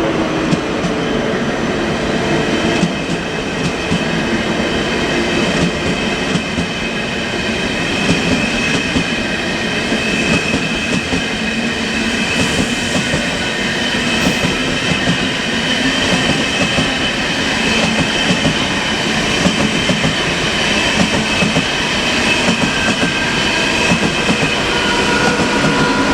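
A train running on the rails, with a steady high squeal from the wheels.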